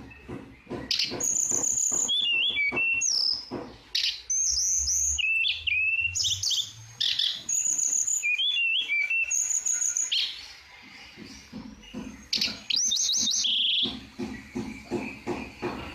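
A tledekan, a blue flycatcher, singing actively in repeated phrases of clear whistled notes, some sliding up and down, with quick chattering between them. The song drops off briefly past the middle, then picks up again.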